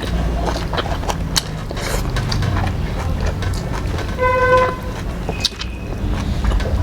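A vehicle horn sounds once, briefly, about four seconds in, over a steady low rumble of road traffic, with small scattered clicks.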